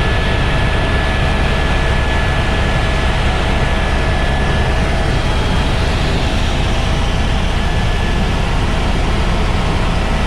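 Helicopter engine and rotors running steadily in flight: a loud, even rumble with a thin steady whine over it.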